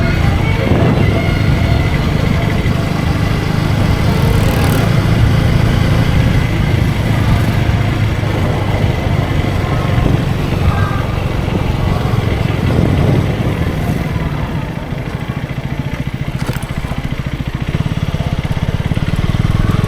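KTM Duke 250 single-cylinder engine running while the motorcycle is ridden, with wind and road noise. It eases off and gets quieter for a few seconds past the middle, then builds again near the end.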